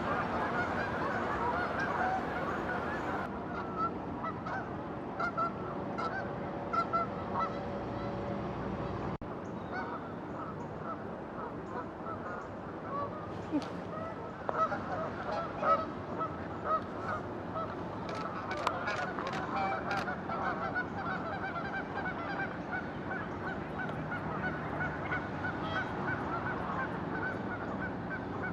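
A flock of geese honking, many birds calling at once in a continuous chorus, with a few sharp clicks in the middle.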